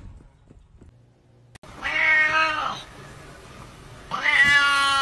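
Domestic cat meowing: one short meow about two seconds in, then a longer, drawn-out meow from about four seconds in.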